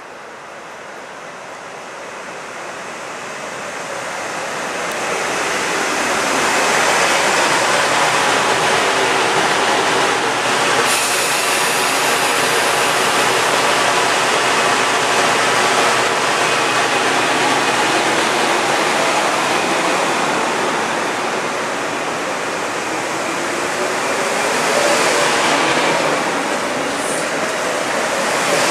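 Metro-North electric commuter train running along the station platform close by, its wheels on the rails making a rushing noise that grows louder over the first several seconds and then holds steady.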